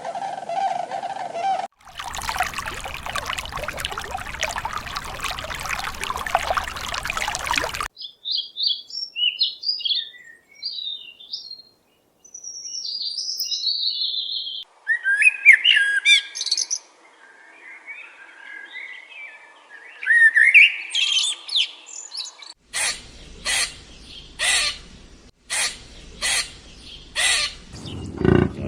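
A string of bird calls from different clips: a dense wash of noise, then short high chirps, then louder rising calls. Near the end comes a run of sharp, evenly spaced clicks about two a second.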